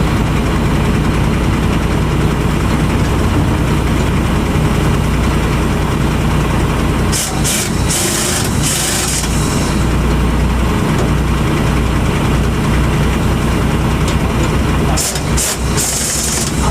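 Heavy truck's diesel engine idling steadily. Short bursts of high hissing cut in twice, about seven seconds in and again near the end.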